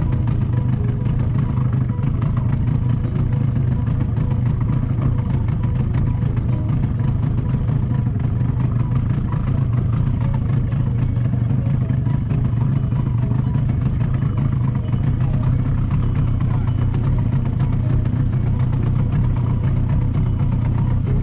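A boat engine running steadily at a constant speed, a low, even drone.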